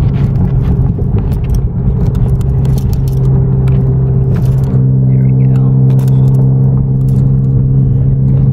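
Car engine and exhaust drone heard from inside the cabin while driving: a steady low hum that becomes steadier, with stronger overtones, about halfway through, with faint scattered clicks from the cabin.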